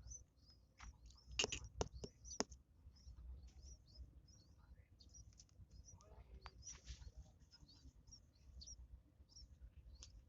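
Yellow-vented bulbul (trucukan) nestlings begging: thin, high chirps that fall in pitch, repeated several times a second. A few sharp clicks come between about one and a half and two and a half seconds in.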